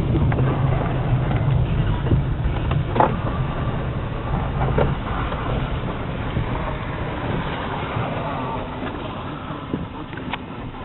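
Car engine and road noise heard from inside the cabin: a steady low hum that eases off after about five seconds, with two sharp knocks about three and five seconds in.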